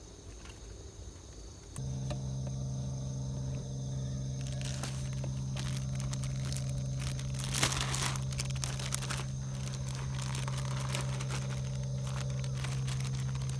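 Plastic packaging crinkling and rustling as it is handled, with a sharper rustle about eight seconds in. A steady low motor hum switches on about two seconds in and keeps running under it.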